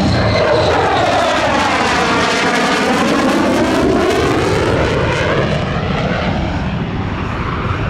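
An airplane flies past at an airshow, its engine noise loud and continuous, the tone sweeping down and back up as it passes by about three seconds in.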